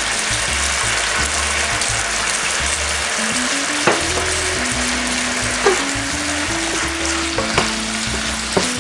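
Chicken pieces sizzling in a hot frying pan as a splash of rice wine goes in, a steady hiss of frying. From about four seconds in there are a few sharp knocks of a spatula against the pan as it is stirred.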